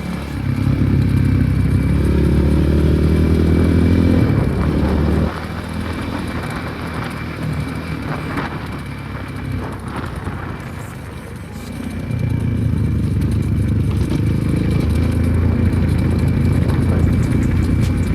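Enduro motorcycle engine under way, pulling at steady revs. It eases off about five seconds in and picks up again about twelve seconds in.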